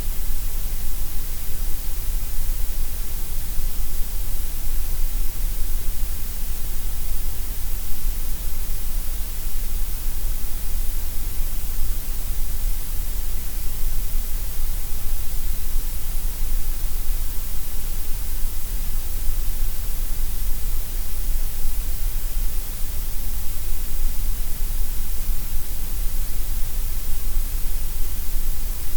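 Steady synthetic gray noise: an even, unbroken hiss, heavier in the deep bass and the high treble than in the middle.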